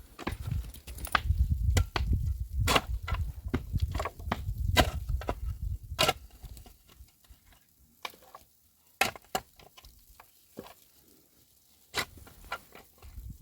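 Irregular sharp knocks and clatters, with a low rumble under them for the first half, after which the knocks come sparser.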